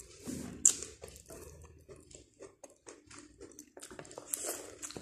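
Biting into and chewing boiled corn on the cob: a sharp bite a little under a second in, then a run of small chewing clicks, and another bite near the end.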